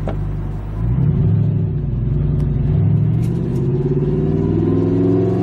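Audi R8's 4.2-litre V8 with an Armytrix aftermarket exhaust, heard from inside the cabin: idling steadily, then about a second in it pulls away, getting louder with the engine note rising as it accelerates.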